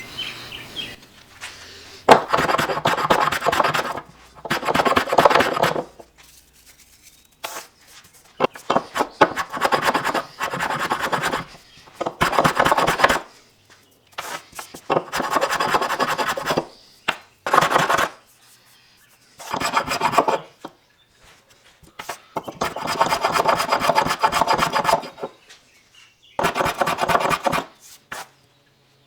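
A hand tool scraped and rubbed across walnut in a series of strokes, each lasting one to three seconds, with short pauses between them: the work of flushing and smoothing a bow tie inlay by hand.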